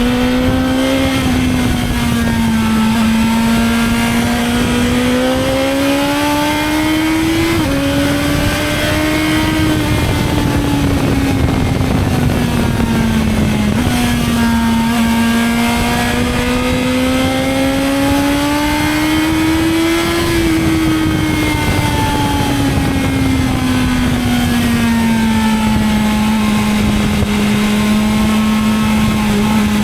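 BMW S1000XR's inline-four engine pulling and easing off under way, its pitch climbing and falling slowly, with two quick gear changes about a quarter of the way in and about halfway. Steady wind rush under the engine.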